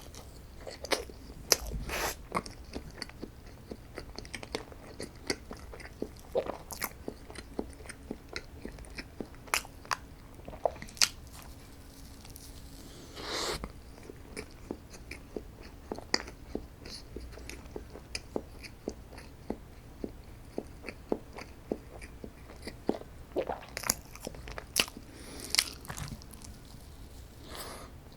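A person eating strawberry desserts: irregular bites and chewing with many short, crisp clicks. There are two longer, noisier sounds, one about halfway through and one near the end.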